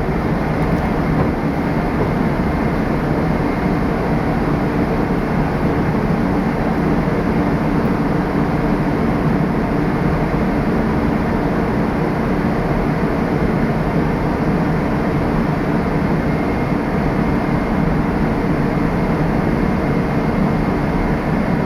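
Cleanroom air shower running: its blower driving high-velocity air through the nozzles, a loud, steady rush of air with a low fan hum.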